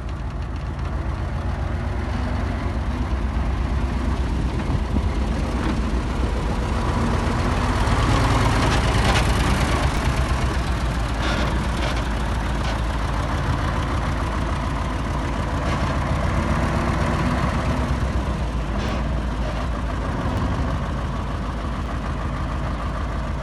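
Heavy diesel earthmoving machine engine running steadily under work, growing somewhat louder about eight to ten seconds in.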